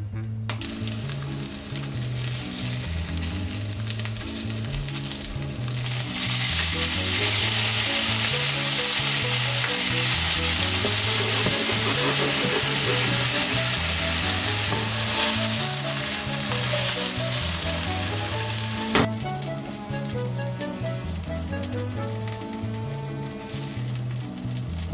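Bite-sized chicken breast pieces coated in potato starch sizzling as they fry in oil in a nonstick frying pan. The sizzling grows louder about six seconds in, a sharp knock comes about three quarters of the way through, and the sizzling is quieter after it.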